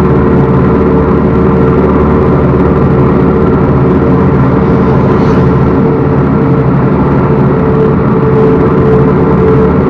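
Backhoe loader's diesel engine running steadily at a constant pitch.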